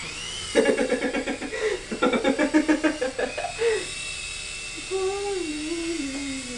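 Micro Blade Scout CX RC helicopter's small electric motors whining with a high steady pitch that rises and falls briefly at the start, under rapid pulsed voice sounds in the first half and a drawn-out voice sound near the end.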